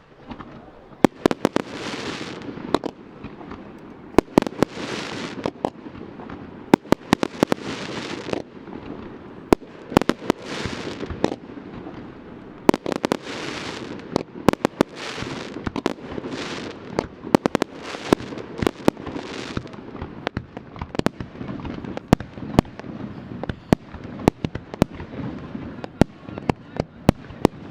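Aerial fireworks display: a rapid, irregular run of sharp shell-burst bangs, with repeated surges of hiss and crackle lasting about a second each.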